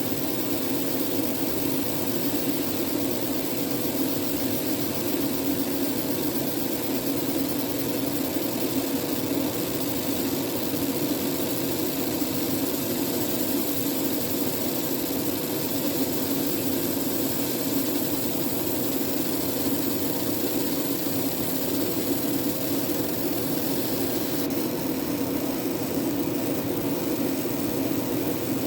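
Fiber laser engraving machine running, a steady hum with a high hiss; the hiss changes slightly near the end.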